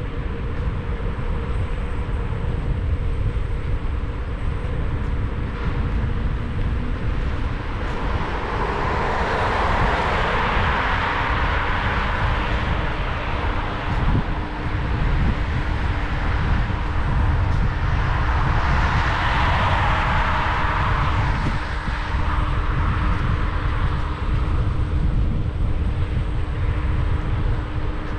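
Riding an electric scooter (Xiaomi Scooter 1S) in city traffic: heavy wind rumble on the camera microphone with a steady low hum underneath. Traffic noise swells up twice as vehicles pass, about a third and about two thirds of the way through.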